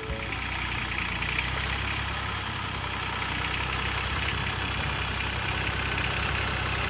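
Tractor engine running steadily, with a steady hiss over its low hum.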